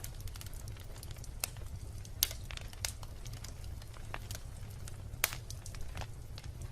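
Wood fire burning with irregular crackles and pops, the sharpest pops a little after two seconds and again a little after five, over a steady low rumble.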